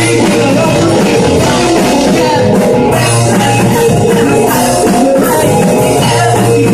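Live rock band playing: electric guitar and drum kit, loud and steady.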